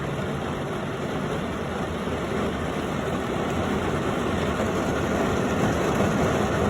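Torrential rain falling on a car's roof and windshield, heard from inside the car: a steady hiss that grows a little louder.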